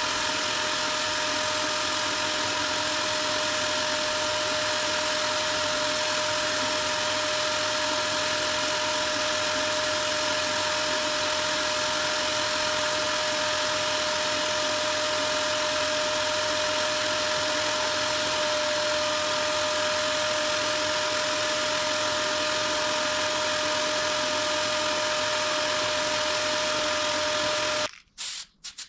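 Power sander running steadily on body filler on a car's front wing, its motor holding one even tone. It cuts off about a second before the end, and short hand-sanding strokes follow.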